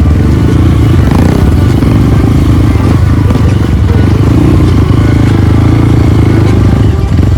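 Trail motorcycle engine running steadily at low revs while being ridden, with some clatter from the bike.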